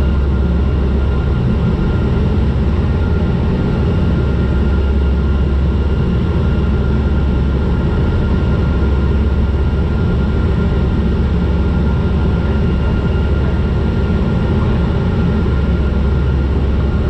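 Turboprop airliner's engines and propellers heard inside the cabin: a steady low drone with a thin, constant high whine over it, unchanging throughout.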